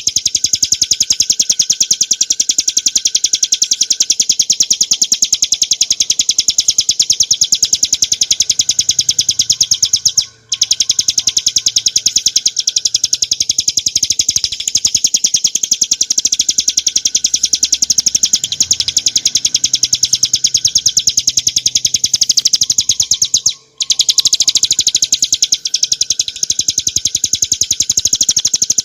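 Ciblek gunung, a small prinia, singing a continuous, very fast trill of high, sharp notes. The trill breaks off briefly twice, about ten seconds in and again a little before the end.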